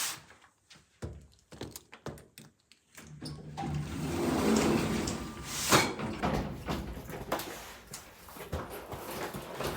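Household handling sounds: a few scattered light clicks and knocks, then from about a third of the way in a steadier rustling and shuffling of things being moved, with one sharp knock a little past the middle.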